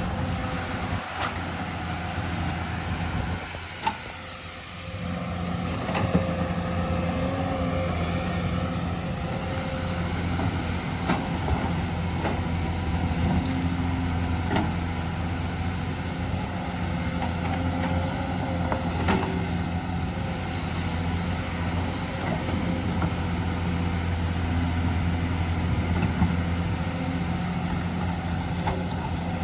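Hyundai hydraulic excavator's diesel engine running steadily under work, with a handful of sharp knocks scattered through and a brief drop in engine sound about four seconds in.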